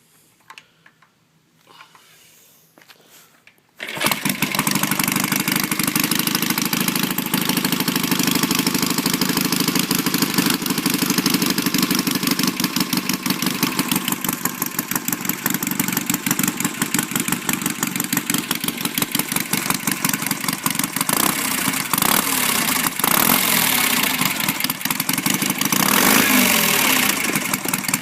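Cold start of a 1969 BSA 650 parallel-twin motorcycle engine through chrome straight pipes with baffles. It fires about four seconds in and runs steadily, its pitch rising and falling briefly near the end.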